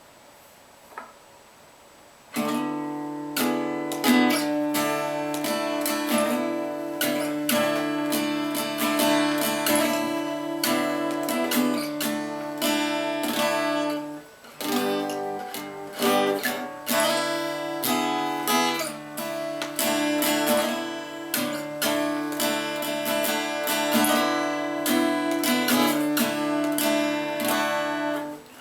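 Acoustic guitar strummed in a steady rhythm as the instrumental intro to a country song, starting about two seconds in after a faint click, with a brief pause about halfway through.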